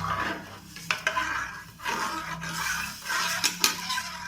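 Spoon stirring rice in water inside a metal pressure cooker, scraping in swells with a few sharp clinks against the pot.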